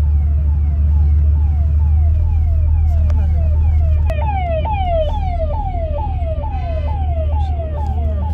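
Electronic siren repeating a quick falling whoop about three times a second, growing louder about four seconds in, over a steady low engine and road rumble.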